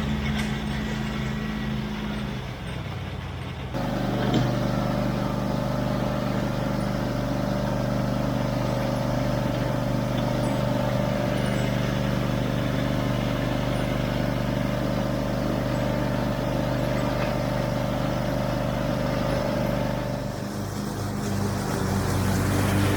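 Cub Cadet 1022 ride-on mower engine running steadily. The sound changes abruptly a few times, about 2 s, 4 s and 20 s in.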